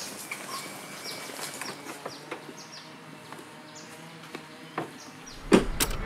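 Birds chirping: many short, high chirps that fall in pitch, over faint garden ambience. Near the end, a low car-cabin rumble starts and two loud sharp knocks sound.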